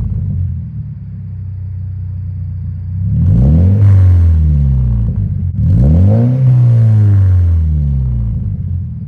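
Subaru BRZ's flat-four boxer engine, breathing through an unbranded aftermarket exhaust with replacement mufflers, idling and then revved twice. The first rev rises about three seconds in and falls straight back; the second rises about six seconds in, holds briefly, and drops back to idle near the end.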